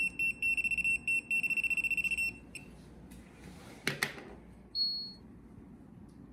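An electronic buzzer beeping in quick pulses at a high pitch, stopping a little over two seconds in. A short clatter follows about four seconds in, then one brief higher beep.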